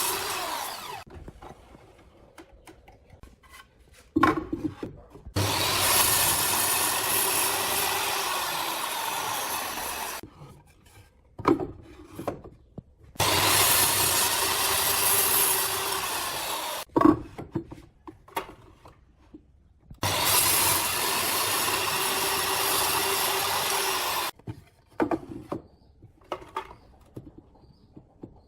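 A power tool runs through wood in three long passes of about four to five seconds each. Between the passes the wood is handled, with short knocks and clicks.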